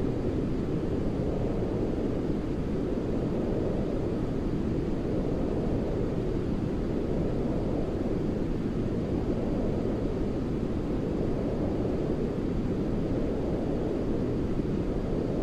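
Steady deep, rumbling white noise played as a baby-sleep sound, swelling and easing slowly every few seconds.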